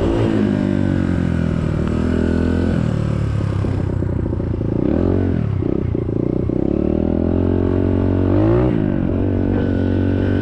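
SSR 150cc dirt bike's single-cylinder four-stroke engine running under way, its pitch dropping as the throttle eases off and climbing again, twice.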